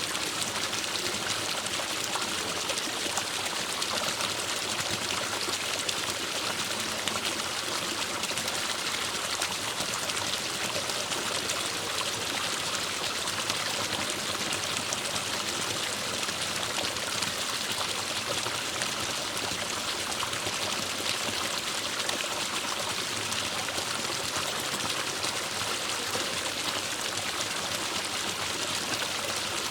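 Forest stream flowing over rocks: a steady rush of water with trickling and splashing, strongest in the upper range.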